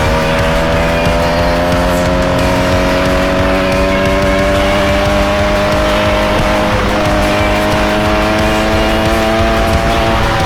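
Motorcycle engine running at a steady cruise, its pitch creeping slowly upward with a brief small dip about two-thirds of the way through, over a low rumble of wind on the microphone.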